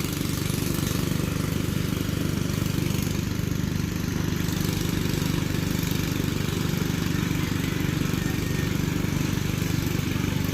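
Kubota tractor's diesel engine running steadily, with a fast, even low chug.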